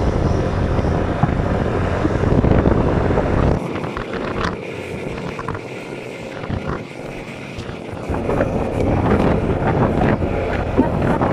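Wind buffeting the microphone, a heavy low rumble that eases for about four seconds in the middle and then picks up again.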